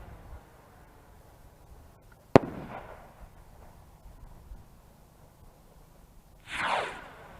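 Fireworks: a single sharp bang about two and a half seconds in, then near the end a louder rushing sound that falls steeply in pitch.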